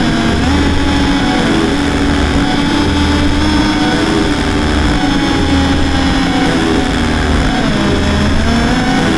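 Electronic drone noise music: dense, distorted sustained tones that slide slowly up and down in pitch over a noisy wash, with a low pulse returning about every second and a half.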